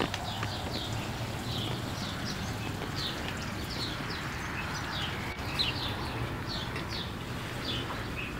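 Many small birds chirping: short, high, downward-sweeping chirps, several a second, over a steady low hum.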